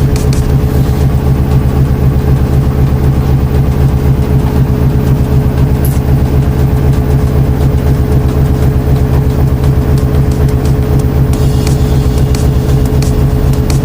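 Washing machine running: a loud, steady low drone with a fast, even pulse and a constant hum tone above it, as from the motor and turning drum late in the wash cycle.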